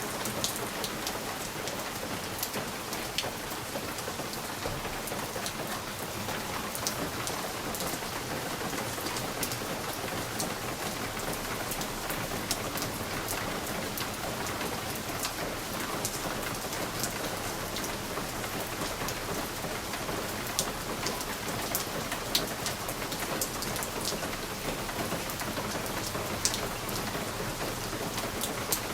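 Steady rain pattering on a window pane, a continuous hiss with frequent sharp ticks of individual drops striking the glass.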